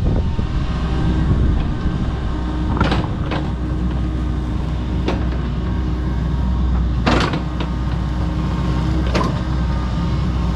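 Kobelco SK85 MSR excavator's diesel engine running steadily under load with a steady hydraulic whine, broken by about five short sharp cracks, the loudest about seven seconds in.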